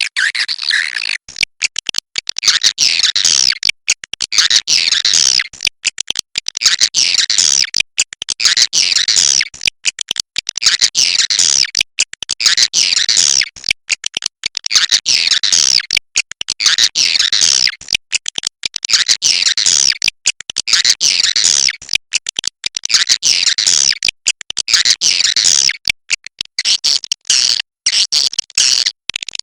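Swiftlets calling: dense, rapid high chittering in repeated phrases, each lasting a second or two, chopped by sudden silent gaps.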